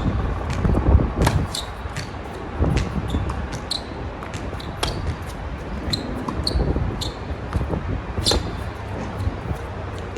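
Tennis balls struck by rackets and bouncing on a hard court in a rally: sharp pops at irregular intervals, some with a brief ringing ping, over a steady low rumble of wind on the microphone.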